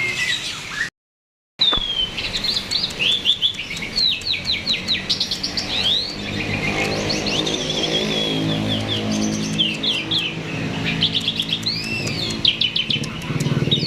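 A jalak (starling) singing busily: a rapid run of varied whistled notes, chirps and sweeping phrases. The sound drops out for a moment about a second in, and a low, steady drone rises behind the song from about halfway.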